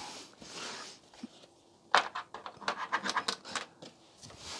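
Handling noise as a TV's power cord is plugged in: a short breathy rush, then a cluster of scrapes and clicks about two seconds in.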